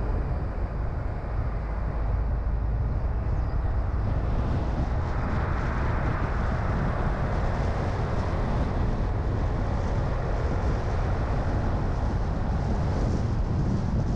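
Car driving on a road: steady engine rumble and tyre and wind noise, the hiss growing louder about five seconds in.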